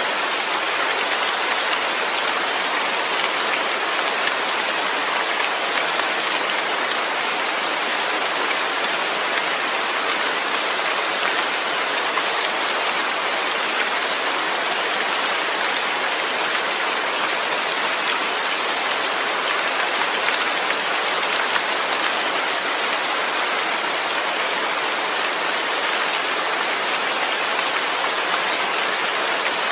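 Steady rain falling, an even dense hiss of drops with no distinct single events.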